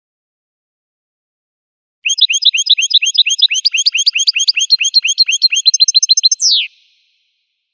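Finch song: a fast trill of short, rising whistled notes, about eight or nine a second, starting about two seconds in and ending with one long falling sweep.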